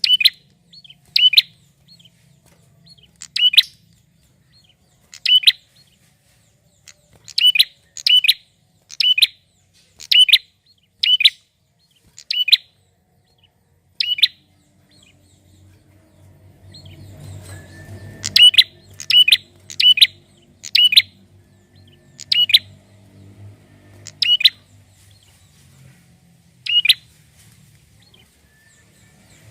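Male prinia (prenjak) calling: a series of short, sharp, high chirps, roughly one a second in loose bursts. A faint low hum sits underneath from about halfway through.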